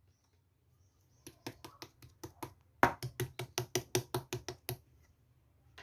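A quick, even series of sharp taps, about five or six a second. There are two runs, a shorter one and then a longer one that starts with the loudest tap.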